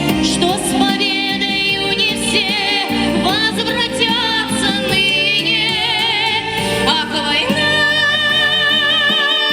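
A woman singing a song with wide vibrato on long held notes, over instrumental accompaniment.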